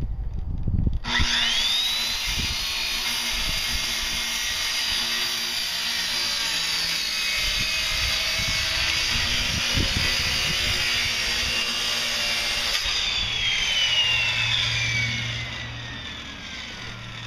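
Electric circular saw spinning up about a second in and cutting through wood for about twelve seconds, then switched off, its blade winding down with a slowly falling whine near the end.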